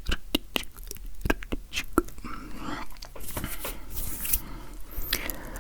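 Close-miked ASMR hand sounds: a run of quick sharp clicks and taps, then about two seconds in a longer rustling, rubbing sound.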